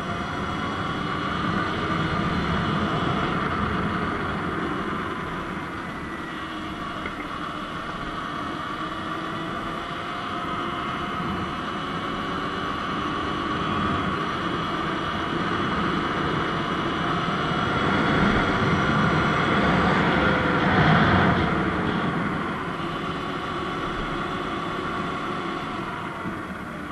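Surron X Light Bee electric dirt bike riding along: the motor's whine slowly rises and falls in pitch with speed over a steady rushing noise, growing louder a little past the middle.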